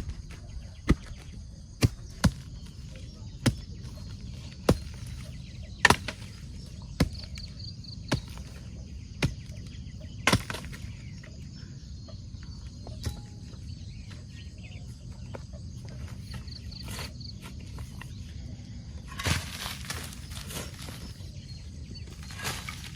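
Sharp knocks of a tool striking wood, about one a second for the first ten seconds, then rustling near the end. Insects chirp briefly over a steady low rumble.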